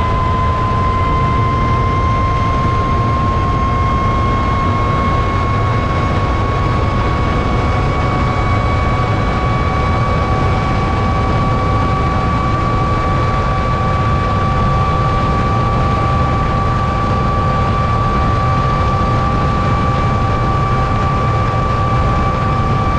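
Ariel Atom's supercharged Honda K20 engine pulling hard in a high gear at speed: a steady high whine that rises slowly in pitch as the car keeps accelerating, over heavy wind and road rush.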